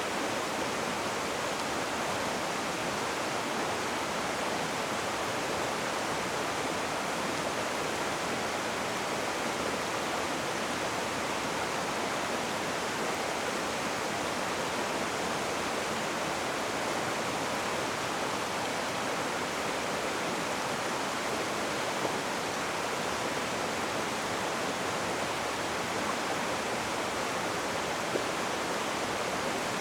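Rushing river water: a steady, even roar of fast-flowing water.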